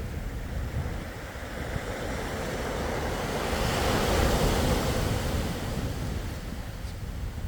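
Sea waves washing onto the shore: one wave swells to its loudest about four seconds in, then recedes.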